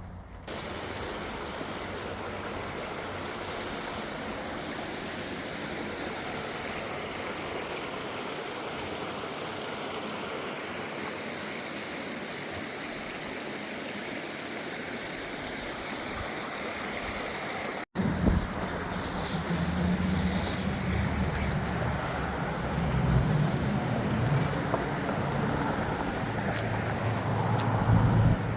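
Steady rushing water, such as a stream or waterfall. After an abrupt cut about two-thirds of the way through, an uneven low rumble takes over.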